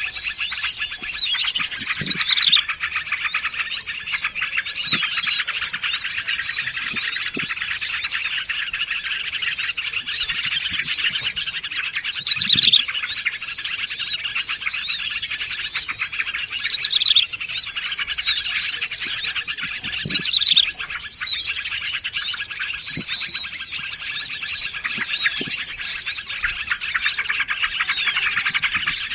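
Dense, layered chorus of small forest songbirds chirping and trilling without pause, many calls overlapping: a bird-trapping lure mix.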